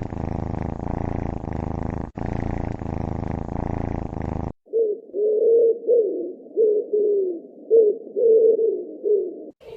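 Animal calls: a steady, low, buzzing rumble for about four and a half seconds, broken once briefly, then a string of short mid-pitched calls that bend up and down.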